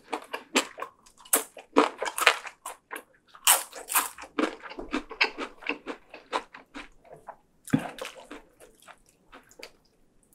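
Close-miked chewing of a mouthful of food: a quick, irregular run of short clicks and crunches that grows fainter after about eight seconds.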